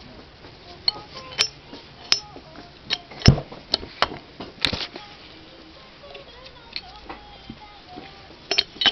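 Sharp metal clinks and knocks of hand tools and parts as a Miyano BTS-34 lathe spindle assembly is taken apart, with the loudest knock about three seconds in.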